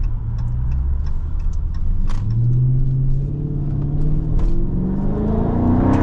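Dodge Scat Pack's 392 Hemi V8, with its mid muffler deleted, accelerating under load, its pitch climbing steadily over several seconds.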